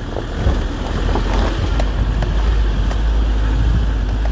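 A 4x4's engine pulling steadily in low-range second gear up a steep slope, heard from inside the cabin as a low, steady drone. A few sharp knocks sound over it as the car rides over rough ground.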